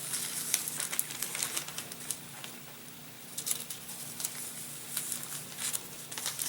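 Backing sheet being peeled off plastic model-aircraft covering film, with irregular crinkling and crackling of the thin film.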